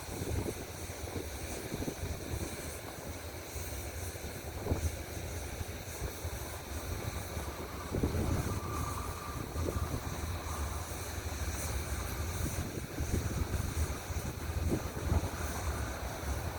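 Loaded coal train rolling, a steady low rumble with scattered knocks, and wind on the microphone.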